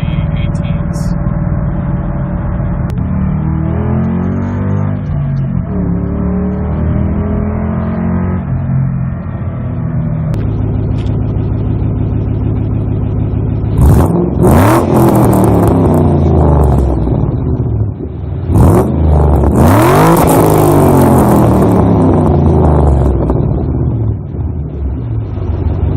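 2007 Ford Mustang running through a Magnaflow Magnapack cat-back exhaust, heard from inside the cabin: steady cruising with some gear changes, then two hard full-throttle pulls about 14 and 18.5 seconds in, the loudest part, before settling back to steady running.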